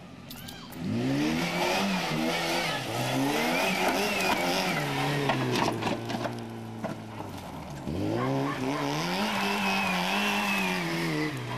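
Volkswagen Polo rally car engine revving: it climbs and holds high revs for a few seconds, drops back to a steady idle around the middle with a few sharp clicks, then revs up again and falls away near the end.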